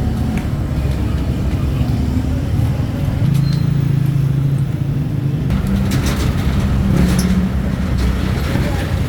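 Street traffic with a vehicle engine running close by, a steady low engine hum, and a few clicks and knocks in the second half.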